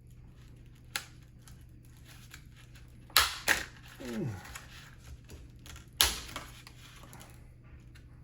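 Plastic packaging being torn and snapped open by hand, with crinkling and a few sharp cracks, the loudest two about three seconds in and one near six seconds.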